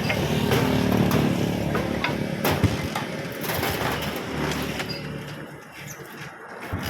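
A motor vehicle engine running steadily, loudest in the first couple of seconds and fading away by about six seconds in, with a few short knocks.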